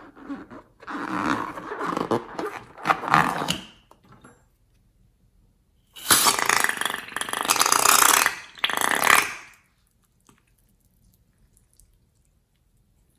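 Slime being squeezed and kneaded by hand, squelching with wet pops of trapped air, in two bursts of a few seconds each.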